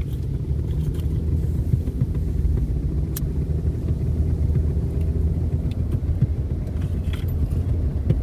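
Steady low road-and-engine rumble heard from inside a moving vehicle's cabin, with a few small clicks and rattles scattered through it.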